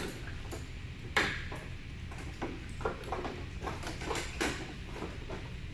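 Light metallic clicks and knocks from tools and loose trim parts being handled, with one louder knock about a second in.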